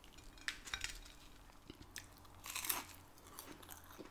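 Close-up chewing of a char-grilled cheese quesadilla, with small clicks and a louder crunch about two and a half seconds in.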